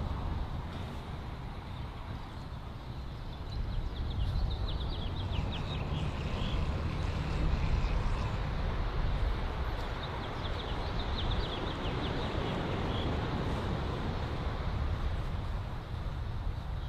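Steady low rumble with a bird's rapid chirping trill twice, a few seconds in and again around the middle.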